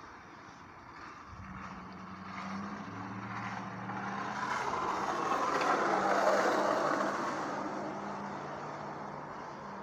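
A motor vehicle passing by, its engine hum and road noise growing louder to a peak about six seconds in, then fading away.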